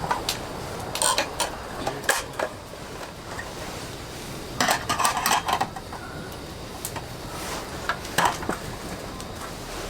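Scattered clinks and clatter of camp cookware and utensils being handled, in small clusters, over a steady hiss of rain.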